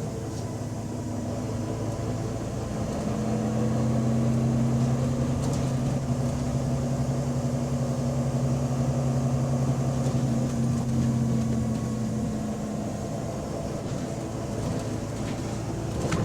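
Double-decker bus diesel engine running under way, as heard on board, at a steady pitch; it grows louder a few seconds in and eases off again near the end.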